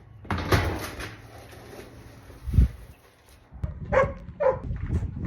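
A dog barks twice in quick succession about four seconds in, after a rustling noise near the start and a single low thump.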